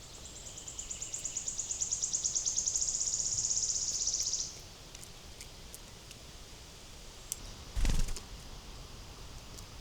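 A small songbird sings a rapid, high trill for about four seconds. It grows louder and stops abruptly. Near the end there is a short, dull thump.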